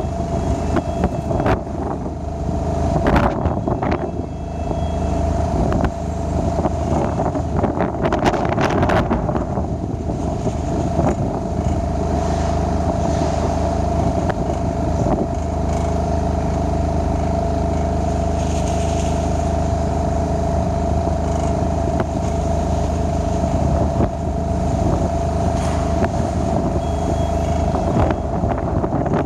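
Stephill SLT5000 diesel lighting tower's engine running steadily at a constant speed. Gusts of wind buffet the microphone several times in the first third.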